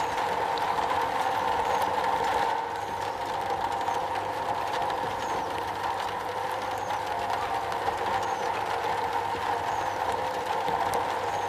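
Rain falling on a metal roof: a dense, steady patter of drops on sheet metal.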